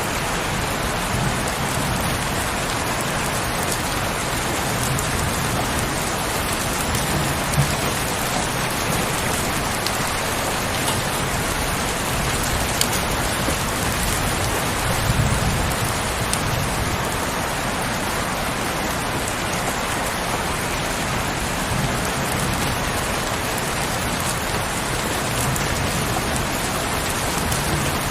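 Steady heavy rain falling, a dense, even hiss of drops. A low rumble swells briefly about halfway through.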